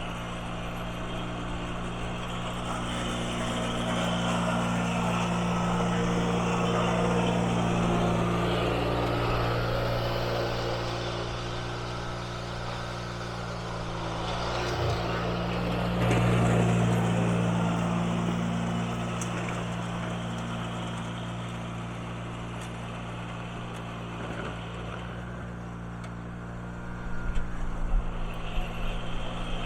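1980 IH Cub Cadet 582 garden tractor engine running steadily, its level swelling twice and easing off again, with a rougher, uneven rumble near the end.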